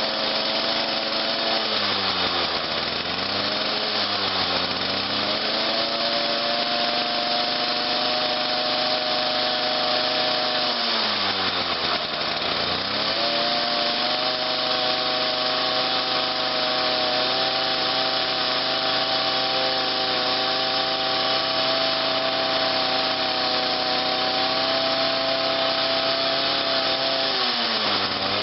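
Cold Omich small engine with electronic ignition running at −10 °C; its speed drops and picks up again several times: twice in the first few seconds, once more deeply around the middle, and again near the end.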